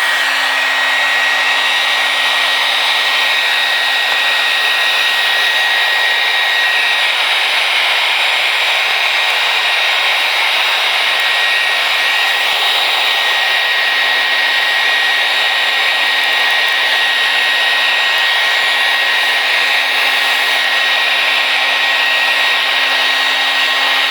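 Handheld hair dryer running steadily, a loud rush of air with a thin high whine, blowing hot air onto a glued floor tile to soften its adhesive.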